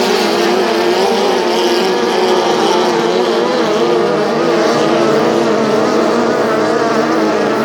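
Outboard engines of racing tunnel boats running at high revs, a steady loud drone whose pitch wavers up and down.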